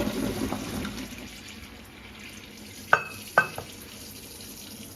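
Pasta water pouring out of the pot into a colander in the sink, splashing for about the first second and a half and then draining more quietly. About three seconds in come two sharp metallic clanks, half a second apart, each with a short ring.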